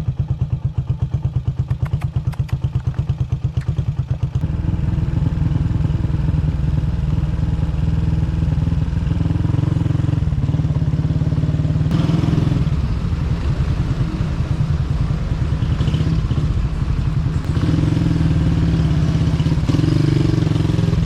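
Motorcycle engine idling with a quick, even beat, then pulling away about four seconds in and running steadily louder as the bike rides on.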